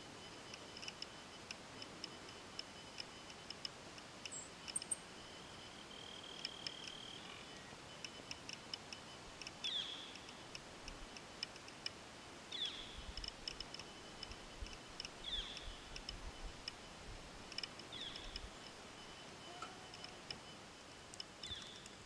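Faint outdoor quiet with a bird calling a short note that slides down in pitch, five times at even spacing of about three seconds from about halfway through. Fast faint ticking runs underneath.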